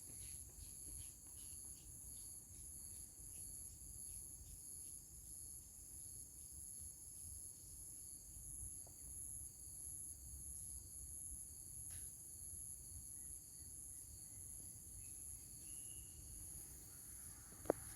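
Steady high-pitched chorus of forest insects (crickets or cicadas) droning without pause, with faint regular footsteps about twice a second in the first half and one sharp click near the end.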